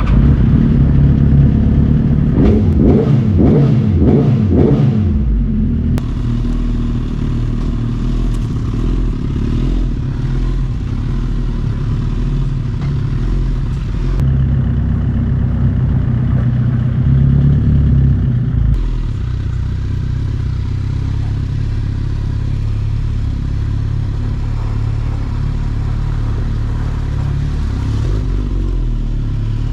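Sport motorcycle engines at speed: the engine pitch rises and falls quickly several times a few seconds in as the bikes accelerate, then settles into a steady high-speed drone.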